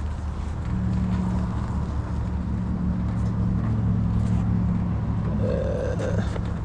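A vehicle engine running steadily at low revs, picking up slightly about a second in, with a short higher-pitched noise near the end.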